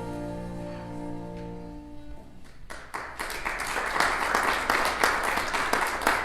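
The held final chord of a worship song fades away; about two and a half seconds in, the congregation breaks into applause.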